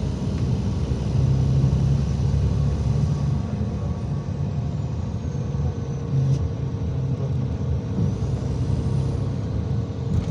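IVECO Crossway 13M PRO city bus running under way, with a steady engine and road rumble. A faint high whine slides down and then rises again about two-thirds of the way through.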